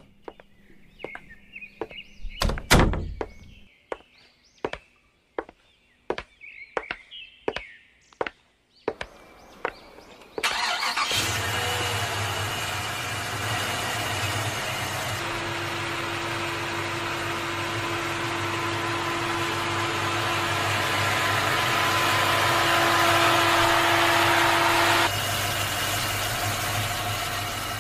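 A run of sharp clicks and knocks, then a car engine sound effect starts suddenly about ten seconds in and runs steadily, growing slowly louder before dropping back a little near the end.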